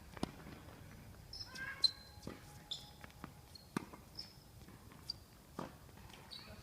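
Tennis ball struck by rackets and bouncing on the court during a rally: a string of sharp knocks at irregular intervals, about seven in all, with a few short high squeaks between them.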